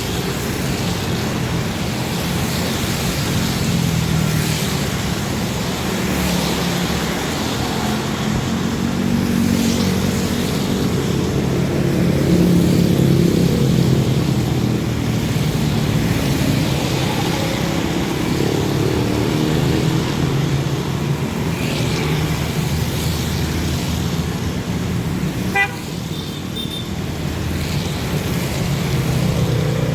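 Dense road traffic: vehicle engines running steadily, with horns tooting.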